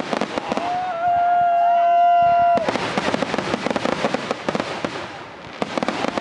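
Fireworks going off in dense, rapid crackling of many small bangs. A steady high whistle cuts in about half a second in and stops suddenly after about two seconds. The crackling eases briefly near the end, then picks up again.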